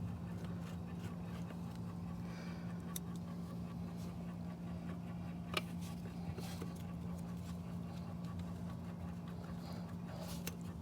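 A few sharp clicks and light scrapes of a pool pump motor's capacitor cover being fitted back on by hand, over a steady low hum.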